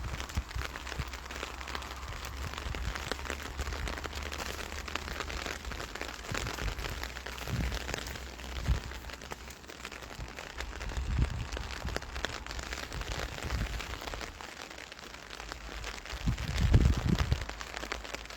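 Steady rain falling, a dense patter of fine drops, over a low rumble, with a louder low swell near the end.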